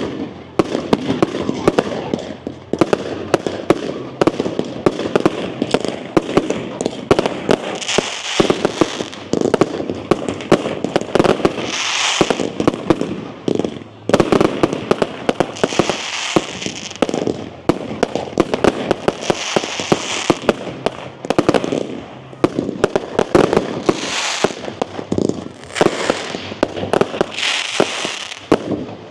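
Fireworks display going off: a rapid, continuous string of bangs and crackles, with bursts of high crackling every few seconds.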